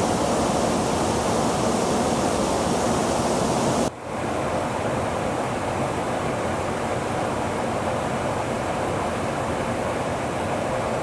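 Steady rushing noise of a Saab JAS 39 Gripen's jet engine. It breaks off abruptly about four seconds in, then carries on slightly quieter with a faint steady tone.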